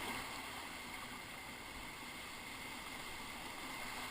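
Steady rushing of whitewater river current around a raft, an even noise with no distinct events.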